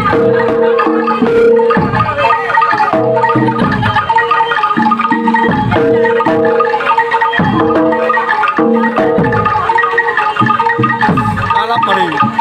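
Javanese gamelan music: bronze metallophones ringing held notes, with repeated strokes that quickly fall in pitch.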